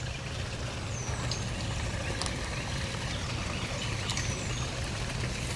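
Outdoor ambience: a steady low rumble, with a bird giving a short, high, falling chirp twice and a few faint clicks.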